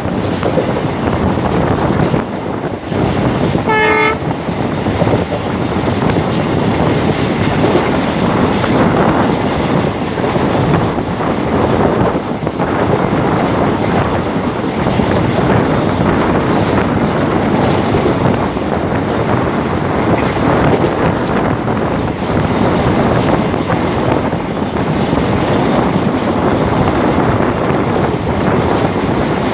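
Indian Railways passenger train running at speed, heard from an open coach door: a steady noisy rumble and rattle of the coach on the track. About four seconds in comes a short blast of a train horn.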